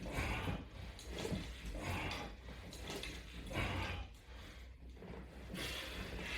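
A man breathing hard in short puffs, roughly one a second, the effortful breathing of someone doing a set of crunches.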